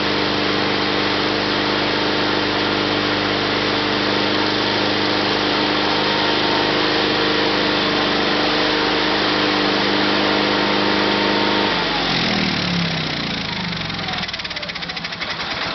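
16 horsepower opposed twin-cylinder Onan engine of a 1974 Sears Suburban SS/16 garden tractor running steadily at a constant speed, then shut off about twelve seconds in, its pitch falling as it winds down to a stop.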